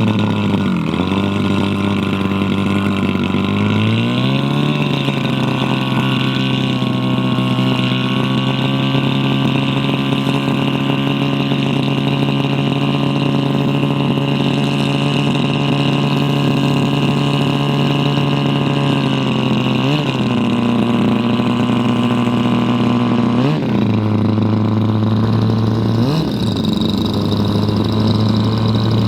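Large model-airplane engine running close by at a steady speed. It speeds up to a higher steady setting about four seconds in, then dips briefly and picks up again three times near the end as the throttle is blipped.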